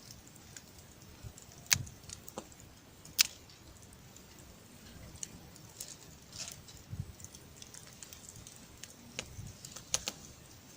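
Wood fire crackling, with scattered sharp pops over a low steady hiss; the loudest pops come about 2 and 3 seconds in and again near the end.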